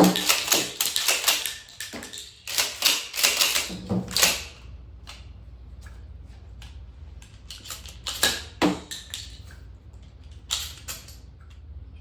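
Shotgun being handled during loading practice: a rapid run of clicks and clacks as shells and the action are worked, thinning out after about four seconds to a few scattered clicks.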